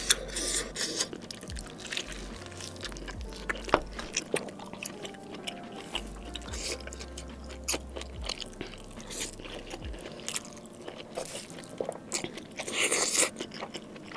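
Close-miked chewing of saucy instant noodles and steak: wet mouth smacks and clicks, with a longer, louder slurp near the end.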